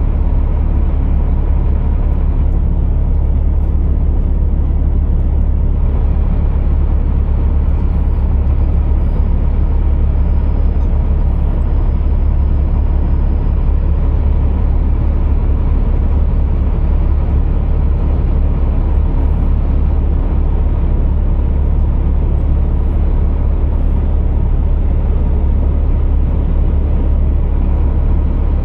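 Scania R480 heavy truck's six-cylinder diesel running steadily, a constant deep rumble with no change in pitch.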